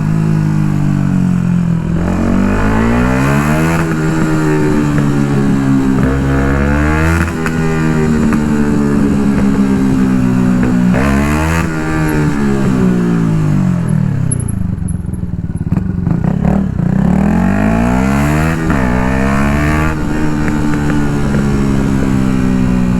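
Yamaha MT-125 single-cylinder 125 cc four-stroke engine breathing through an Akrapovic full exhaust while riding. Its pitch climbs and drops several times as it pulls through the gears, falls away through the middle as the bike slows, then rises again and eases off near the end.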